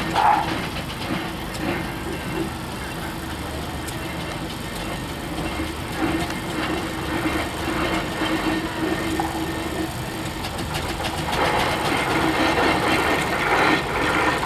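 Steam traction engine running, with a regular clatter of exhaust beats and a steady low hum. It grows louder and hissier near the end.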